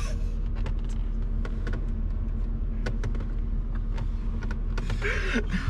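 Car engine idling steadily with a low hum, with scattered light clicks and taps.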